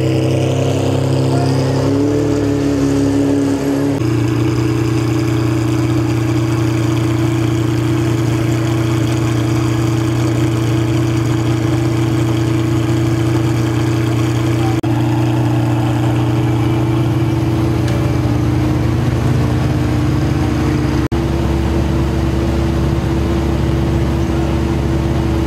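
LM-spec McLaren F1's BMW V12 idling as the car creeps along, a steady low engine note that shifts slightly in pitch a few times.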